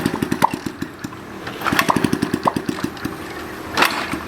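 Small single-cylinder motorcycle engine of a modified Honda Chaly running with a fast, even beat, revved up in two short bursts.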